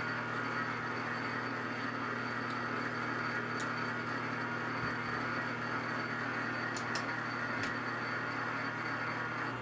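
Metal lathe running steadily while turning an aluminum part, a constant motor hum under the hiss of the cut, with a few sharp ticks scattered through it.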